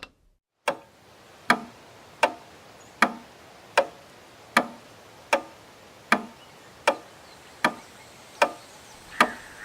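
A clock ticking: evenly spaced sharp ticks, about four every three seconds, starting just under a second in after a moment of silence.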